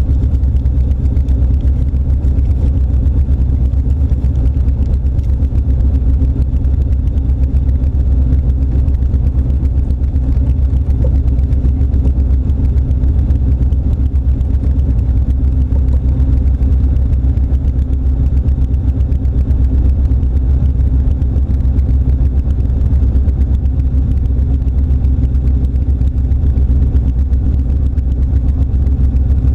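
Turbocharged LS1 5.7-litre V8 in an AC Cobra replica idling steadily, a deep, even rumble heard from the open cockpit.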